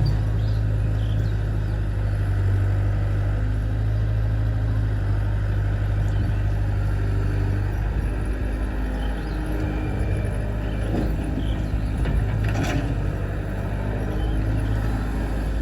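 Heavy diesel engine running steadily, with a brief knock about three-quarters of the way through.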